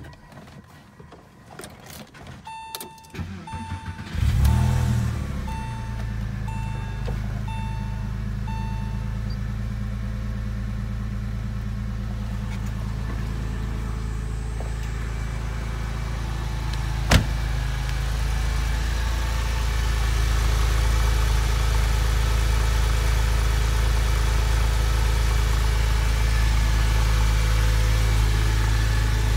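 2001 Porsche 911's flat-six engine starting, catching about four seconds in with a brief flare, then idling steadily. A dashboard warning chime beeps about eight times around the start, and one sharp click comes about halfway through. The idle grows a little louder later on.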